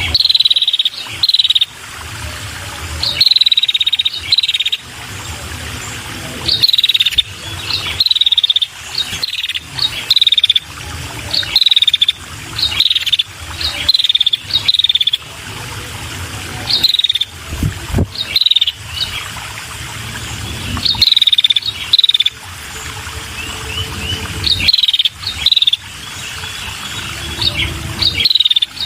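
Female red-headed prenjak, a small Indonesian warbler, giving short high chirping calls that each drop slightly in pitch, in clusters of one to three notes every second or two. A faint steady insect-like hum sits underneath.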